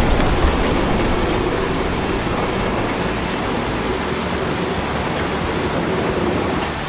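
A large building collapsing in demolition: a heavy, steady rumble of falling structure and debris that slowly eases off.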